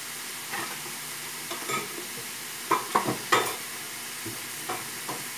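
Chicken pieces sizzling in a wok over a gas flame, a steady hiss, with a few sharp clicks and knocks, three loud ones close together about three seconds in.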